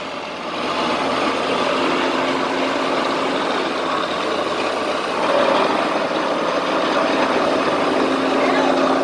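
A motor vehicle running with steady engine and road noise, which swells a little about half a second in and again about five seconds in.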